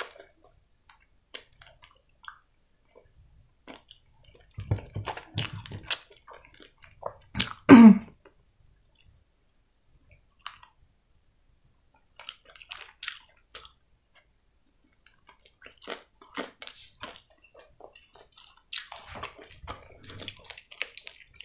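Close-miked chewing of crispy breaded chicken: wet mouth sounds and crunches in scattered bursts with quiet gaps, the loudest bite about eight seconds in.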